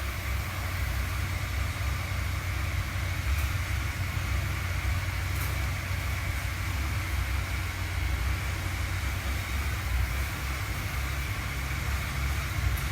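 Husqvarna 701 Supermoto's single-cylinder engine idling steadily, a low even rumble with no revving.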